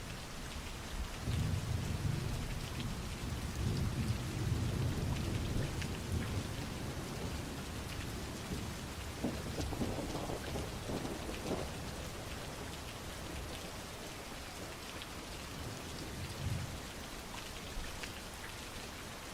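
Heavy rain falling steadily, with thunder rumbling deep and long over the first several seconds, a crackling peal of thunder around the middle, and a brief low rumble near the end.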